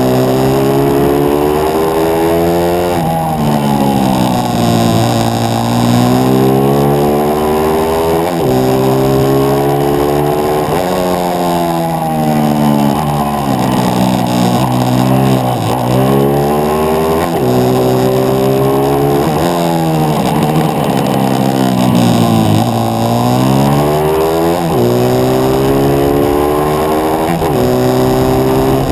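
On-board sound of a 140cc pit bike's single-cylinder four-stroke engine at racing speed, its revs repeatedly climbing as it accelerates and dropping back every few seconds for gear changes and corners.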